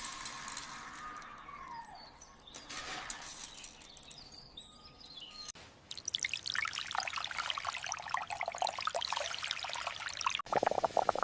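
Water pouring and trickling, with bird calls in the first couple of seconds. The sound changes abruptly twice, and a dense pattering runs through the second half.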